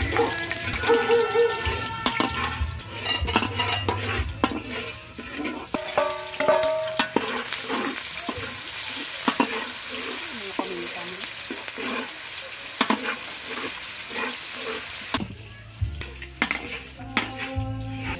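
Garlic and sliced onion sizzling in hot oil in a large steel wok, with a long-handled metal ladle stirring and scraping against the pan in frequent clinks. The sizzling cuts off abruptly about fifteen seconds in.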